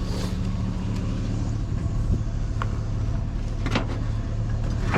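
Truck engine running steadily, heard from inside the cab, with a couple of short clicks or knocks near the end.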